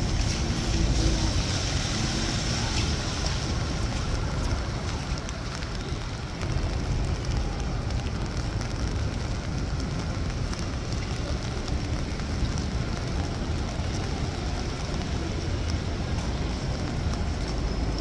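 Rain falling on a city street: a steady hiss of rain over a continuous low rumble, with a few faint drip-like ticks.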